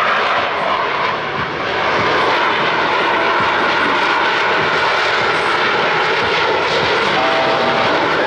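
Two Boeing F/A-18 Super Hornet jets, each with twin General Electric F414 turbofan engines, making a slow, nose-high pass: loud, steady jet engine noise with a slight dip about a second in.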